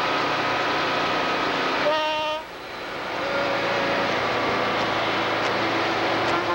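Trucks' air horns sounding over the steady noise of passing diesel trucks, held chords of several pitches. One short loud blast about two seconds in cuts off sharply.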